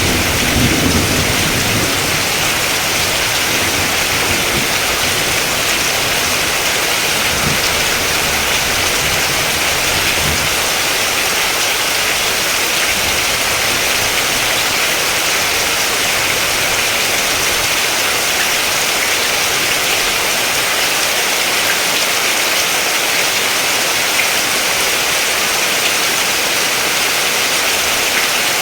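Steady rain falling, an even hiss, with a low rumble of thunder in the first part that dies away about ten seconds in.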